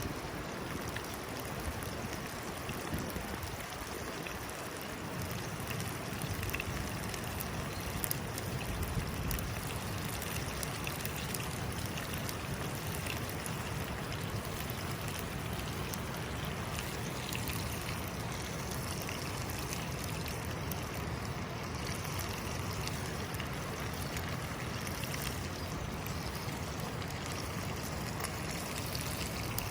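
Steady rushing of a river or stream flowing.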